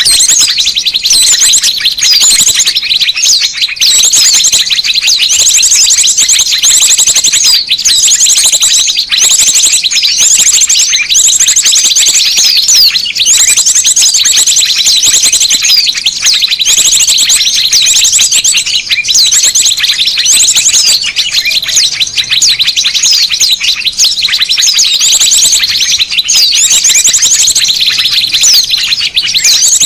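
Bird-lure recording of many small birds calling at once: a dense, loud, unbroken chorus of high chirps, with rapid trills repeating every second or two.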